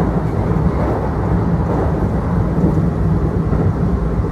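Steady low rumble of a Kintetsu Osaka Line local train running, heard from inside the passenger car: wheels rolling on the rails.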